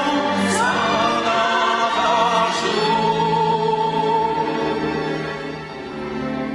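Singing with string orchestra accompaniment: a long held note with vibrato, the music easing off near the end.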